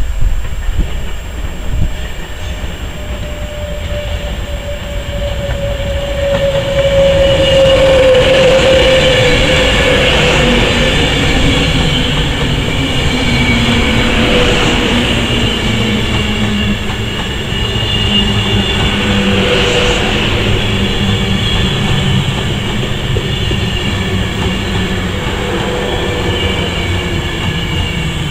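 Class 390 Pendolino electric train arriving and running slowly past close by, wheels rumbling on the rails, with a whine from its traction motors that falls in pitch as it slows.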